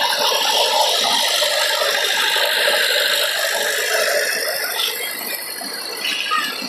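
Tractor running with a steady mechanical rattle.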